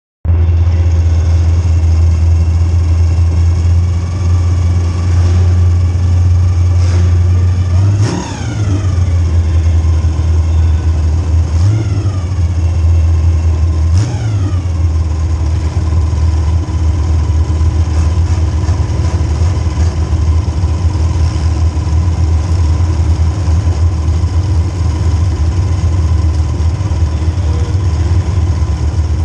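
Demolition derby car's small-block Chevy V8 running loud and steady, with three sharp sounds about eight, twelve and fourteen seconds in, each trailed by a falling whine.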